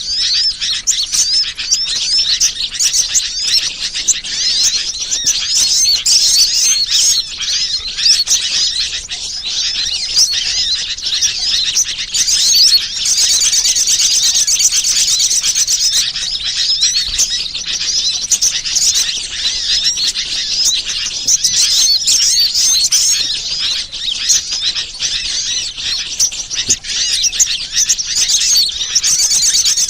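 A dense, continuous chorus of many small birds chirping and twittering, high-pitched and overlapping: a recorded bird-lure call track.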